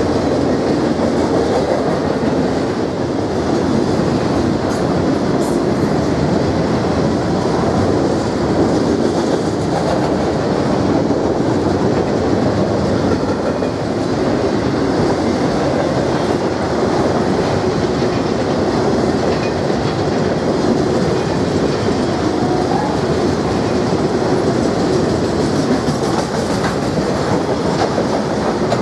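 Freight train of autorack cars rolling steadily past close by: the continuous rumble and clatter of steel wheels on the rails, with no locomotive horn.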